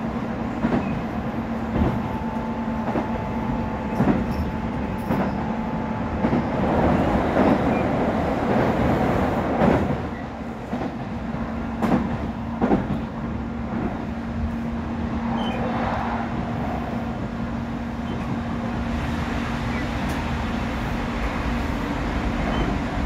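Running noise heard inside an Odakyu 3000 series electric train's motor car at speed: a steady rumble of wheels and running gear under a steady hum, with a few sharp clacks of the wheels over rail joints.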